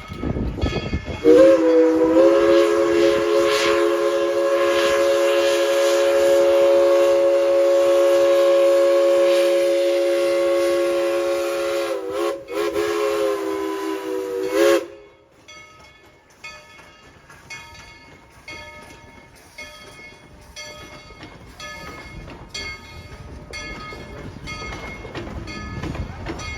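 Steam locomotive whistle sounding several tones at once: one long blast of about eleven seconds, a brief break, then a short final blast. It cuts off about fifteen seconds in, leaving a quieter, even rhythm of clicking from the moving train.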